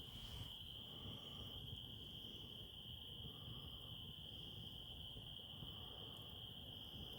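Insect chorus: a continuous, steady, high-pitched trill.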